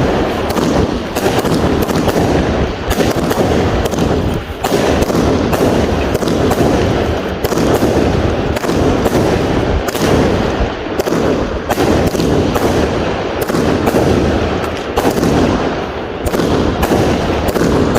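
Dense, nonstop barrage of firework and firecracker bangs, several a second and overlapping, with no pause.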